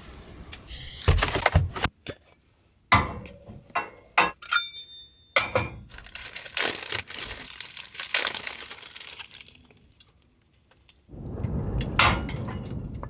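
A string of clinks and knocks from small hard objects being handled, one ringing briefly like glass or metal. Wind gusts buffeting the camper come back near the end.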